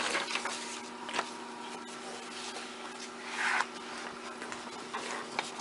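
Soft paper rustling as a worksheet packet is handled and slid into a folder, over a steady low hum.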